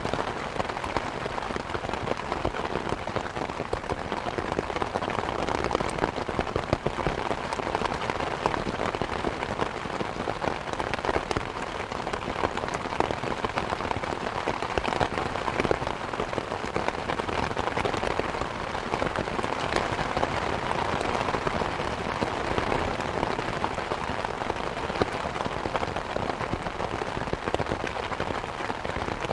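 Steady rain hiss mixed with the crackle of a fireplace fire: many small, sharp pops scattered over an even wash of noise.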